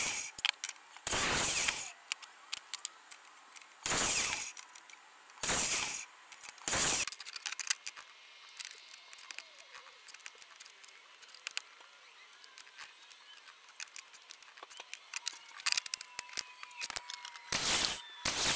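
Compound miter saw cutting hardwood strips, sped up by the time-lapse into a string of short, clipped bursts: about five in quick succession, then a quieter stretch of small clicks and handling, then a few more cuts near the end.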